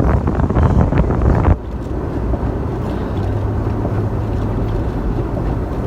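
1996 Ford Bronco driving through unplowed snow: a loud, rough rumble of engine and tyres with wind buffeting the microphone, which drops suddenly about one and a half seconds in to a steadier, quieter drone.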